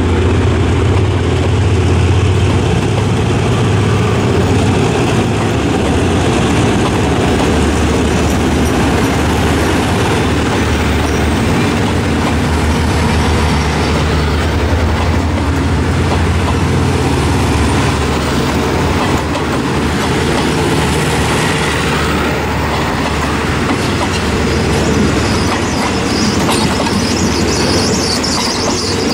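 Passenger train passing close by: the diesel-electric locomotive's engine drone is strongest at first and fades as the coaches roll past with steady wheel-on-rail noise, and a higher squeal comes in near the end.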